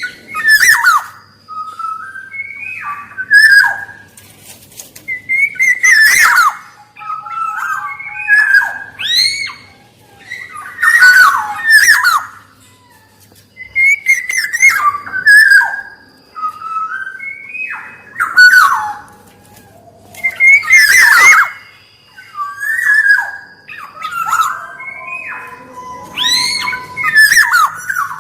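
Black-naped oriole (kepodang) calling, repeating short phrases of fluty whistles mixed with harsher sweeping notes, about one phrase every two seconds.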